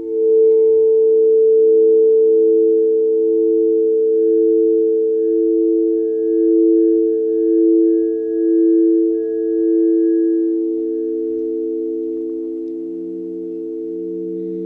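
Singing bowls sounding together in a sustained chord of pure, ringing tones. One tone wavers in slow pulses about once a second, and a lower tone comes in near the end.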